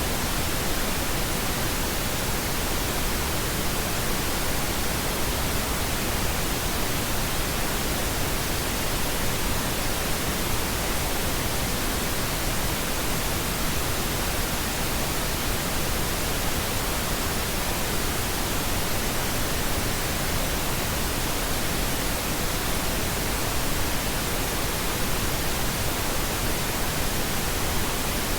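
Synthetic pink noise: a steady, even hiss spread across the whole range, unchanging throughout.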